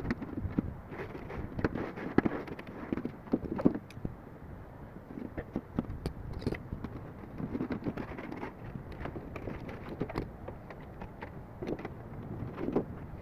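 Sheet metal being handled and worked with hand tools: irregular knocks, clanks and rattles, a few louder ones about two seconds in, near four seconds and near the end.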